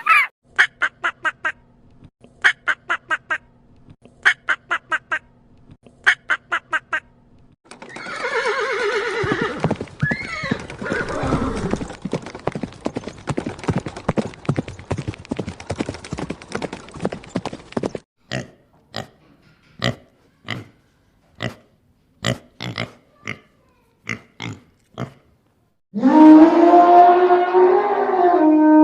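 A horse whinnying, with a loud falling call about eight seconds in, among quick rattling clicks and later single sharp hoof clip-clops. Near the end a different animal starts a low, drawn-out call.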